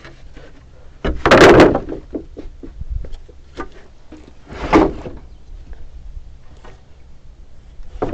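Timber being handled during hand-tool carpentry: two loud wooden clunks, the first about a second in and a shorter one near five seconds, with light knocks and clicks between.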